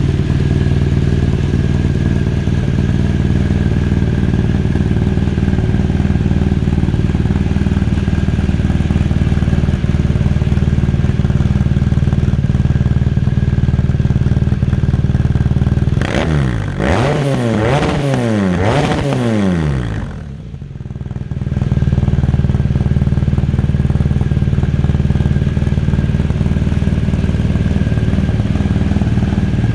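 2018 BMW R1200 GS's liquid-cooled boxer-twin engine idling steadily. A little past halfway it is revved several times in quick succession, then dips briefly and settles back to idle.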